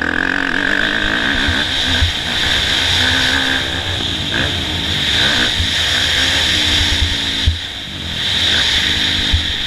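Motocross bike's four-stroke single-cylinder engine revving on and off the throttle while riding, its pitch rising and falling, with a steady hiss over it. The engine eases off briefly about three-quarters of the way in, then picks up again.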